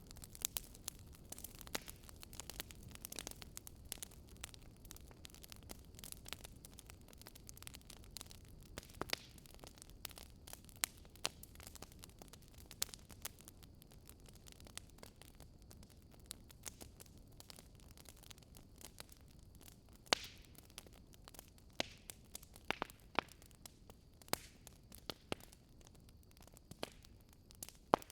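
Fireplace fire crackling, with irregular sharp pops and snaps over a low steady rumble.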